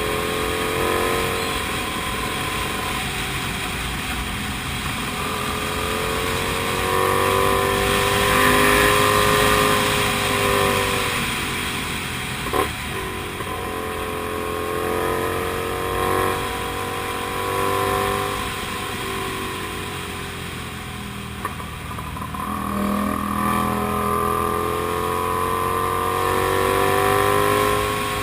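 Kasinski Comet GTR250's 250 cc V-twin engine running under way, its revs rising and falling several times, over a steady rush of wind noise. There is a short sharp knock about twelve seconds in.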